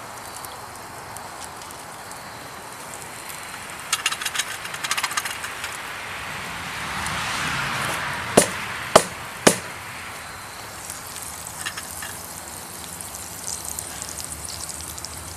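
Round pie iron being handled over the campfire: three sharp metal knocks about a second apart midway, as the stuck sandwich is worked loose. Small crackles and a brief swell of hissing come from the fire.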